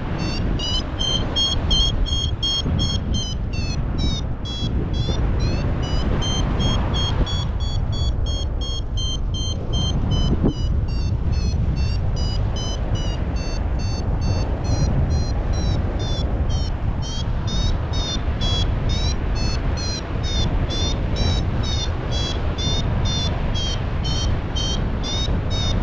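Paragliding variometer sounding its climb tone: rapid, evenly spaced high beeps whose pitch drifts lower and then higher again, signalling the glider is rising in lift. Heavy wind rumble on the microphone sits under the beeps.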